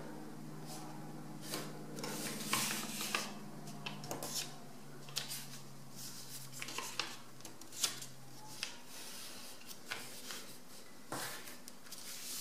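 A sheet of A4 paper being folded and creased by hand: intermittent rustling and rubbing with short crisp crackles as the fold is pressed down. A low steady hum runs underneath and stops about two-thirds of the way through.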